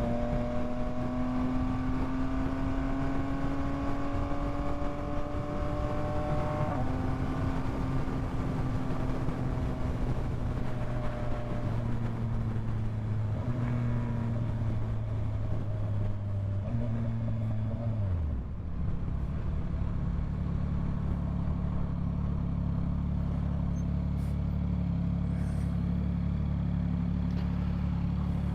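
Yamaha MT-09 three-cylinder motorcycle engine running under way, its note rising slowly, dropping suddenly about seven seconds in, then falling steeply about eighteen seconds in as the bike slows and settling into a steady low note.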